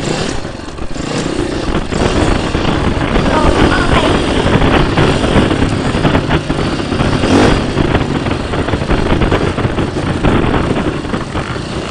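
Dirt bike engine running loud and close while riding a motocross track.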